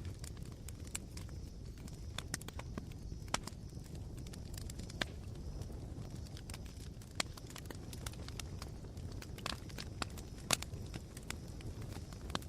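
Campfire embers crackling: irregular sharp pops and snaps over a low steady rumble of burning.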